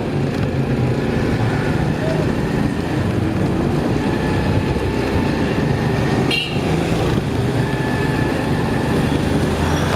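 Motorcycle engine running steadily while riding, with road and traffic noise. There is a brief high-pitched sound about six seconds in.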